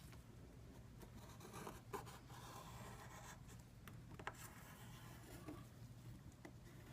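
Faint scratching and rubbing with a couple of light clicks from small parts and a tool being handled during an iPad 2 screen repair, over a faint steady low hum.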